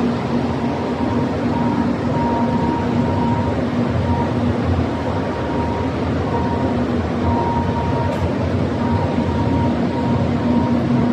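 Steady, loud machinery noise from glass-processing equipment, with a constant low hum and a faint high tone that comes and goes.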